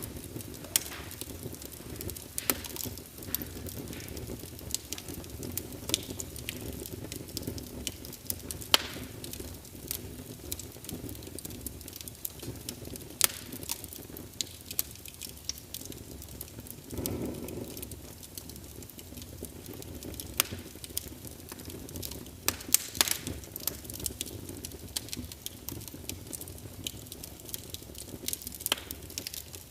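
Log fire burning steadily, with a low rumble of flame and irregular sharp crackles and pops, and a brief louder rush of flame about halfway through.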